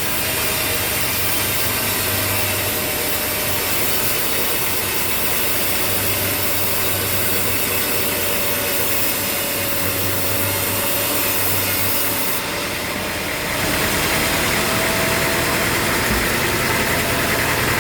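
Sawmill machinery running steadily, with a saw cutting wood over an engine's steady hum; the sound changes abruptly about thirteen seconds in.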